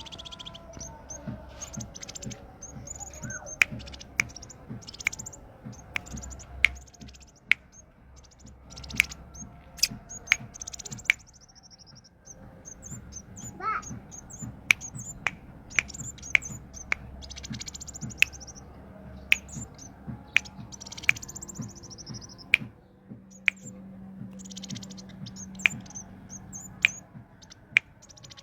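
A small songbird calling in quick high chirps and short buzzy trills, over and over. Sharp single clicks are mixed in about once a second.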